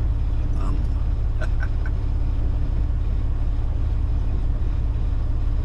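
Semi-truck's diesel engine idling: a steady low rumble with an even hum, unchanging throughout.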